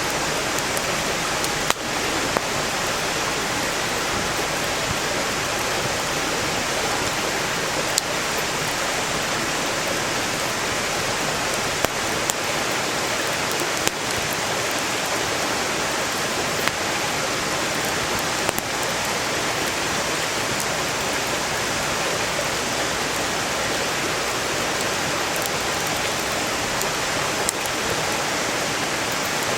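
A mountain stream rushing steadily beside a burning wood campfire, with sharp pops and crackles from the firewood every few seconds.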